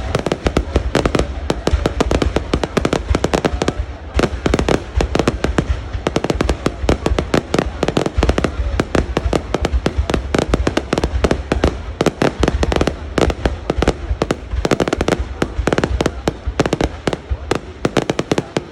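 Fireworks display: a dense, rapid crackle of many sharp bangs, several a second, over a deep rumble, thinning to a few scattered pops at the very end.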